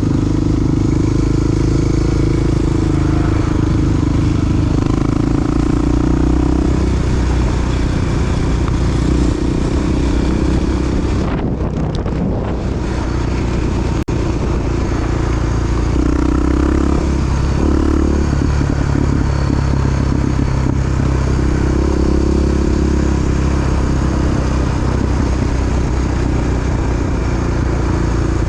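Single-cylinder four-stroke Honda XR dual-sport motorcycle engine running while riding. Its pitch rises and falls several times with throttle and gear changes, and it eases off briefly near the middle.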